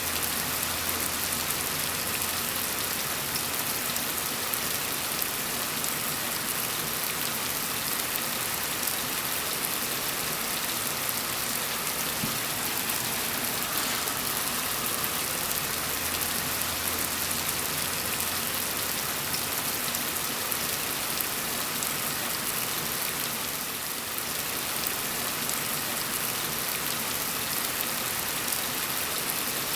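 Steady rain falling: an even hiss of many drops, unchanging throughout.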